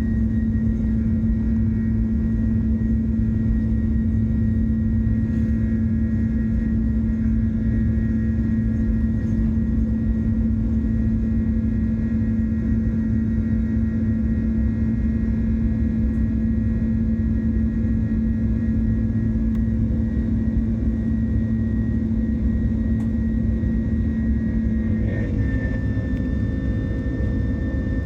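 Airbus A330 jet engines running steadily at high power: a continuous low rumble with a steady hum. About 25 seconds in, the hum shifts slightly in pitch, as the engine power changes.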